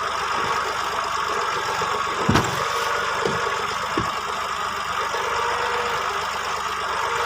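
Massey Ferguson 240 tractor's three-cylinder diesel engine running steadily, with a sharp thump about two seconds in and a smaller knock a couple of seconds later.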